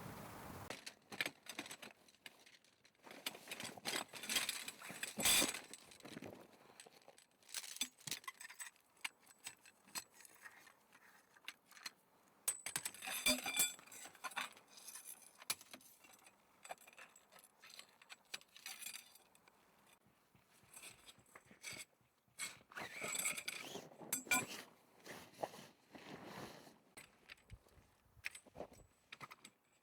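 Irregular clinks, taps and rattles of small hard objects being handled, in several bursts with short pauses between.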